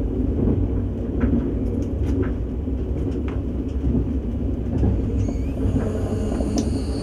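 Steady running rumble of a KTX high-speed train heard inside the passenger cabin at speed, with a few faint clicks. About five seconds in, a faint high steady tone comes in over the rumble.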